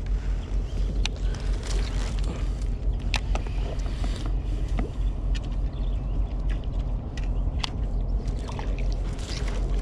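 Kayak on open water: a steady low rumble of wind on the microphone, with small water splashes and scattered sharp clicks against the hull.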